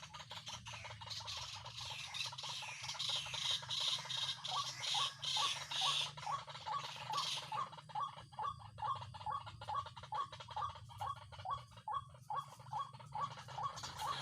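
White-breasted waterhen (ruak-ruak) calling: a long run of short, repeated notes, about two or three a second, with a high rasping chorus behind them in the first half.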